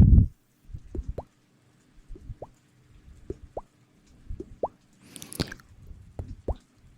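A series of small wet plops, each a quick rising bloop, coming in little clusters about two a second, with a short hiss about five seconds in.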